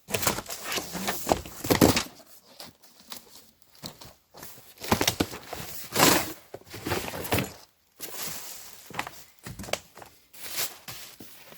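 Packaging being handled during unboxing: plastic and paper crinkling and tearing, with scrapes and knocks in irregular bursts, the loudest about two seconds in and again near the middle.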